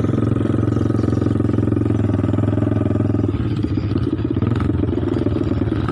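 Motorcycle engine and exhaust running steadily while riding, heard from on the bike. The engine note changes and turns rougher about three seconds in.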